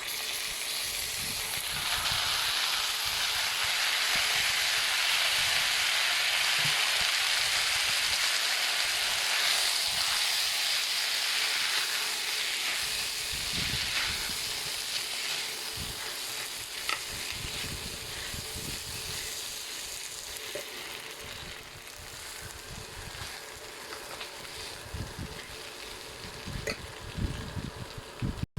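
Peanuts cooking in butter and condensed milk, sizzling in a hot pan as they are stirred. The sizzle swells about two seconds in and slowly dies down, with scattered low knocks of the spoon against the pan.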